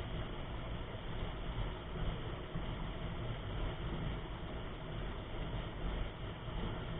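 Wind buffeting and rolling rumble on a bike-mounted or helmet camera microphone during a mountain bike ride, as a steady rough noise with no distinct events.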